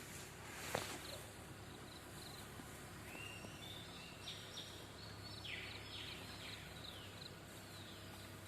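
Quiet forest background with a bird calling: a run of short high chirps and quick falling whistled notes, after a single sharp click about a second in.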